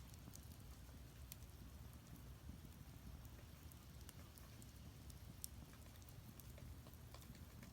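Firewood burning in an agungi, a traditional Korean wood-fired furnace: faint, scattered crackles and pops, a few a second, with three sharper pops standing out, over a low steady rumble.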